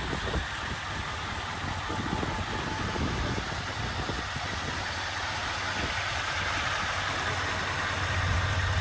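2020 Chevrolet Silverado 2500HD's engine idling steadily, getting a little louder near the end.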